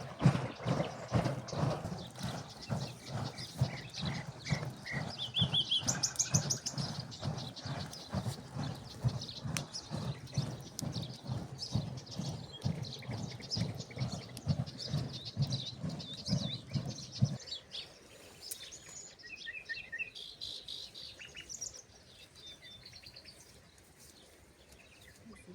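Milk sloshing and thudding in a leather churning bag (musk) being shaken to make butter, in a steady rhythm that stops abruptly about seventeen seconds in. Small birds chirp throughout.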